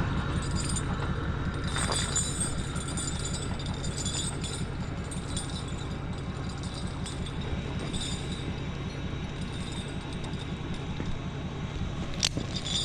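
A vehicle engine running steadily, with light metallic clinking and a single sharp click near the end.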